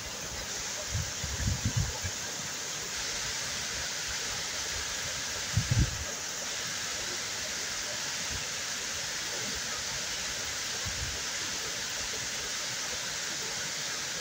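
Waterfall pouring steadily, an even rushing wash of water noise. There are a few brief low thumps, one about a second and a half in and another near six seconds in.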